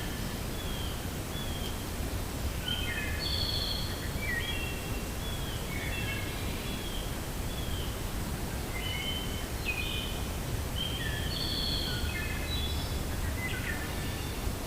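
Wind blowing steadily with a low rumble, and small birds chirping over it in short notes that come in clusters throughout.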